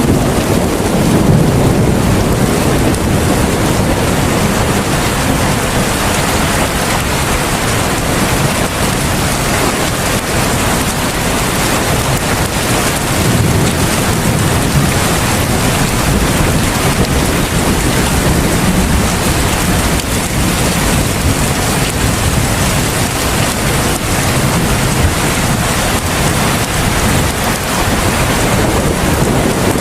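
Heavy rain pouring down steadily, with a low rumble that swells and fades a few times underneath.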